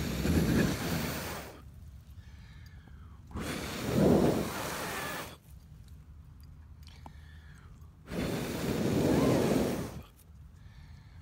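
A man blowing hard onto campfire embers in three long breaths of about two seconds each, coaxing the glowing coals back into flame.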